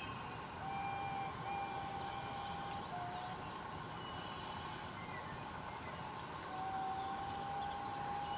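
Several wild birds calling: long, level, fairly low whistled notes, one just under a second in and another from about six and a half seconds, among shorter high chirps and sweeping notes, over a steady background hiss.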